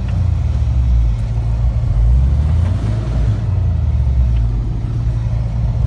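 Suzuki Vitara's engine running in the mud, heard from inside the cabin as a loud, steady low drone that rises and falls a little; the vehicle is bogged down and stuck.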